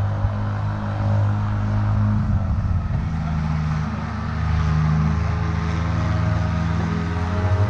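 Ultralight aircraft engine running steadily, its pitch shifting slightly about halfway through.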